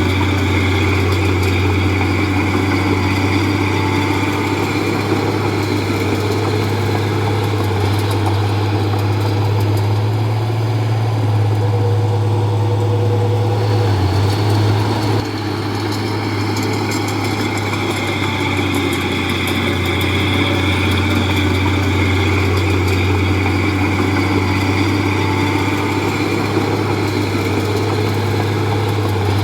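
Diesel engine of a Komatsu D31P crawler bulldozer running steadily with a strong low hum, dipping briefly about halfway through.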